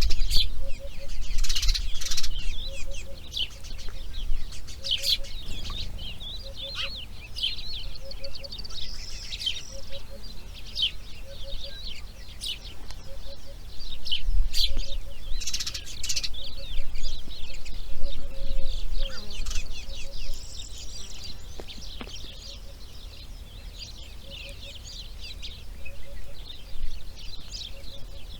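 Wild birds chirping and singing in a busy chorus of quick chirps and short rising and falling whistles, with a faint low call repeated steadily about every one and a half seconds underneath.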